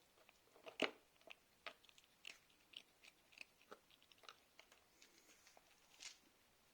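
A cat chewing food, a run of small crunches about two a second, the loudest about a second in.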